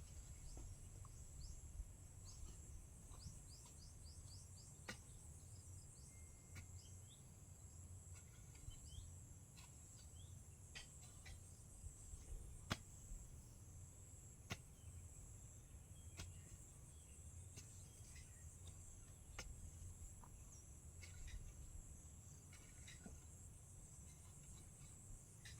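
Faint outdoor ambience: a steady high-pitched insect drone, with scattered sharp clicks and short high chirps, over a low rumble.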